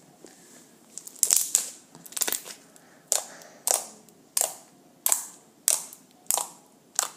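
Slime being squeezed and worked by hand, giving a steady series of sharp wet pops, about one every two-thirds of a second, starting about a second in.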